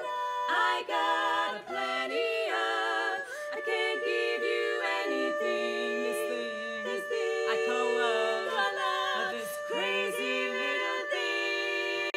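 Women's barbershop quartet singing a cappella in close four-part harmony, with long held chords that shift to new ones.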